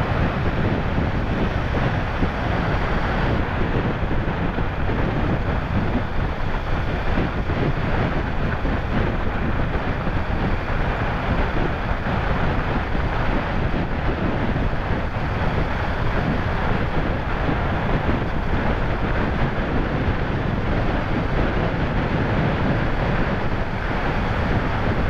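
Steady wind rushing over the microphone of a Kawasaki Ninja 300 motorcycle riding at road speed, with the bike's engine and road noise running under it.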